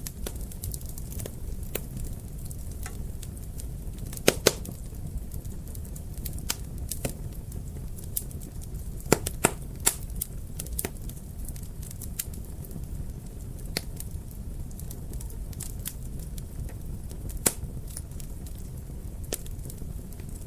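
Wood fire burning in a fireplace: a steady low rumble of flames with irregular crackles and pops, a few louder pops about four, nine and seventeen seconds in.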